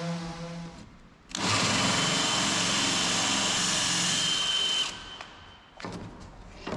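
Power drill boring through a fibreglass boat deck, running steadily for about three and a half seconds and then stopping abruptly, followed by a few small clicks. The existing through-deck holes are being re-drilled larger so they can be filled with thickened epoxy.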